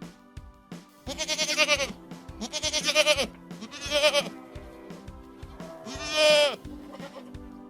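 Four quavering bleats from a bleating farm animal, each about half a second to a second long, over steady background music.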